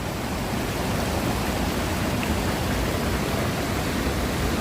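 Waterfall of snowmelt water rushing and crashing, a steady roar of white noise.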